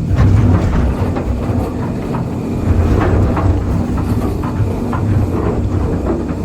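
Excavator's diesel engine running steadily under load, with scattered knocks and scraping as concrete slabs are broken and shoved by the bucket.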